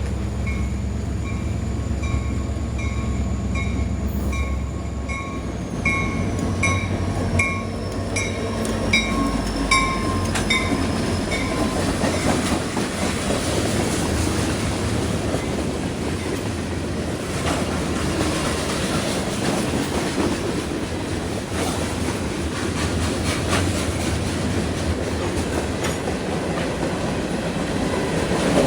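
Local diesel freight train passing at close range. For about the first twelve seconds a bell rings about twice a second over the low rumble of the locomotive. After that come the rolling wheels of the freight cars, clacking over the rail joints.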